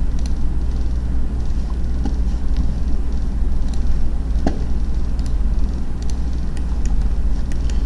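Steady low rumble of background noise, with a few scattered faint clicks, typical of a computer mouse being clicked.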